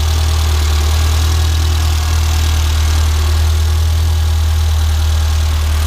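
Renault 5 GT Turbo's engine idling steadily, with no revving.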